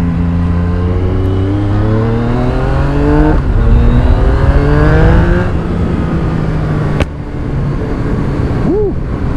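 Yamaha MT-09's three-cylinder engine through an Akrapovic carbon full exhaust, pulling up through the gears. The pitch rises, drops at a shift about three and a half seconds in, rises again and then eases off. A single sharp crack comes about seven seconds in as the throttle closes, and a quick blip follows near the end.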